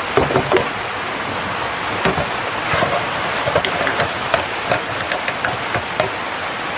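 Steady rain with the sharp, irregular pops and crackles of a wood campfire scattered through it.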